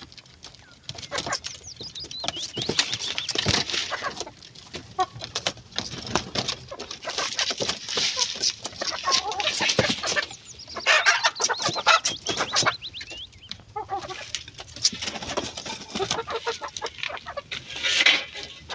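Chickens clucking, mixed with frequent short sharp clicks and knocks.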